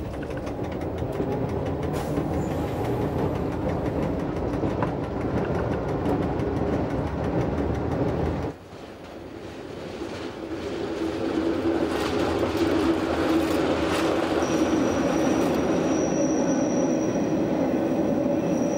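Berner Oberland-Bahn narrow-gauge electric train running along the track, wheels clicking over rail joints and points. The sound breaks off sharply about halfway through, then builds back up. A thin high steady whine joins it over the last few seconds.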